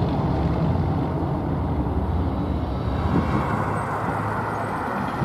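Diesel locomotive engine running, its low hum slowly fading.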